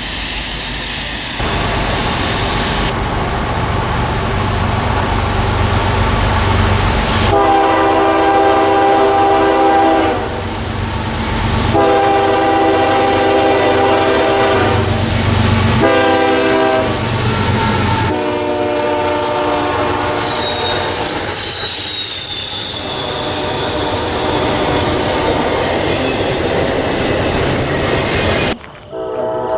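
Locomotive air horn sounding the grade-crossing signal over the rumble of an approaching train: two long chord blasts, a short one, then a long one. It is followed by rolling wheel noise and a high steady squeal as the train passes.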